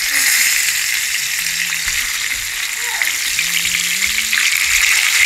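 Salmon steaks frying in hot oil in a skillet: a steady sizzle.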